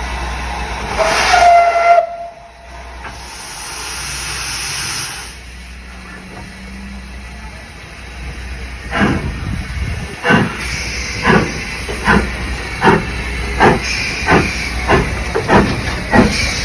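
Steam locomotive giving a short whistle, then letting off a hiss of steam, and then starting away with slow, even exhaust chuffs that quicken slightly.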